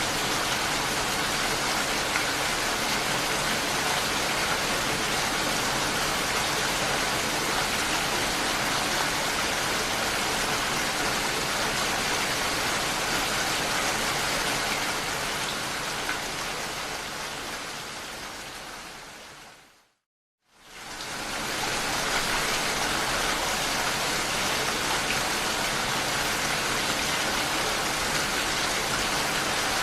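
Steady, even rain. It fades away over several seconds to a moment of silence about two-thirds of the way through, then fades back in within a couple of seconds.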